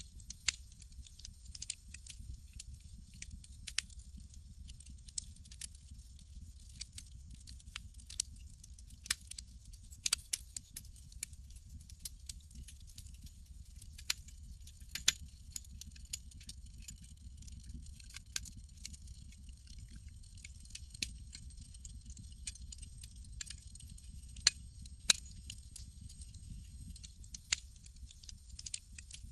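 Campfire crackling: irregular sharp pops and snaps, a few of them loud, over a steady low rumble and a soft hiss.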